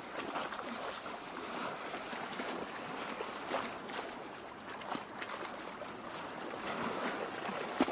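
Lake water lapping and trickling against the shore in small irregular splashes, with one sharper splash near the end.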